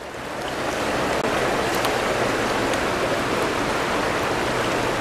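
River water rushing over rocks, a steady churning hiss that swells in from silence over the first second and then holds.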